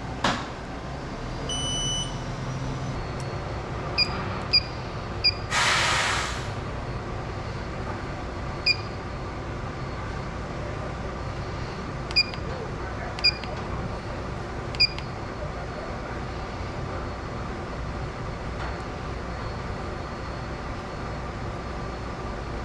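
Steady hum of a powered-up CNC milling machine, with a longer electronic beep near two seconds in and then seven short key-press beeps spread over the next thirteen seconds. A one-second burst of hiss comes about five and a half seconds in.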